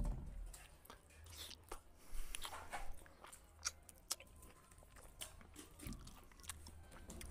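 A man eating rice and fried fish by hand: irregular chewing and crunching mouth sounds, with fingers mixing rice on a plate.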